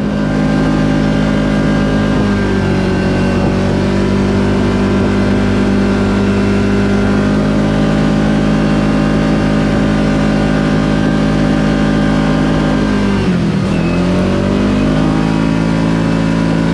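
Side-by-side UTV engine running at steady trail speed, with small shifts in pitch. About 13 seconds in, the revs drop sharply as the throttle is let off, then climb back up.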